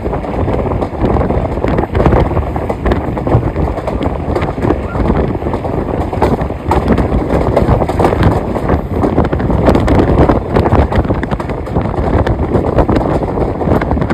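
A passenger train running, heard from an open coach door or window: the steady noise of the wheels on the rails, with small irregular knocks, and wind buffeting the microphone.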